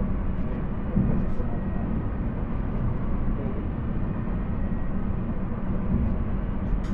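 Regional train running along the line, heard from inside the carriage: a steady low rumble, with a couple of faint light clicks about a second in and near the end.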